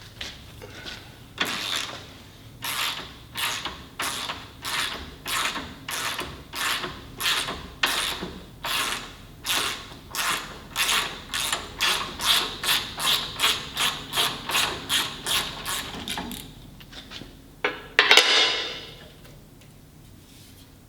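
A hand ratchet being worked in repeated strokes, about one a second at first and speeding up to about three a second, then stopping. Near the end there is one louder scrape.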